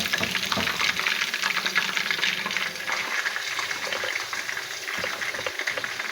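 Chicken pieces frying in hot oil: a steady crackling sizzle, with a few utensil knocks in the first second.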